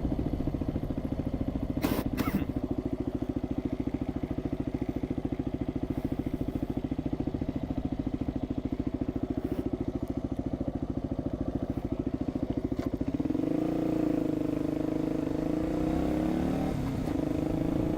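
1985 Suzuki SP250's single-cylinder four-stroke engine running at a steady, evenly pulsing low speed, with a couple of sharp clicks about two seconds in. About thirteen seconds in, the engine picks up revs and its note rises and wavers.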